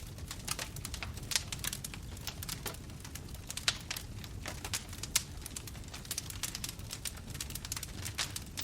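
Bonfire crackling: irregular sharp pops and snaps, several a second, over a low steady rumble of burning flames. The two strongest pops come near the middle.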